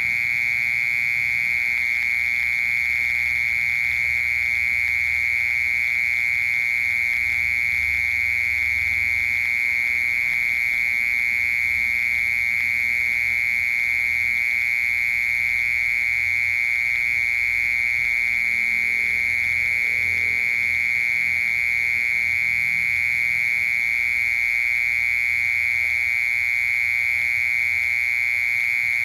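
Cricket singing one continuous, steady, high-pitched trill without pauses.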